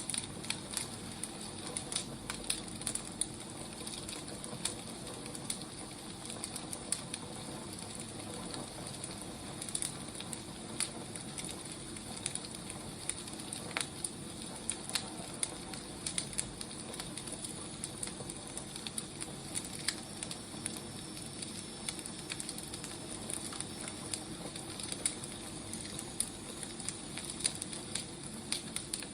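Wood fire crackling: a steady hiss with frequent irregular pops and snaps of burning firewood.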